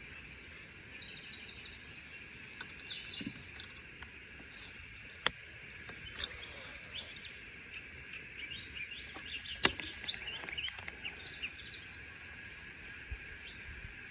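Birds chirping and calling in riverside bush over a steady high hiss, with two sharp clicks about 5 and 10 seconds in, the second louder.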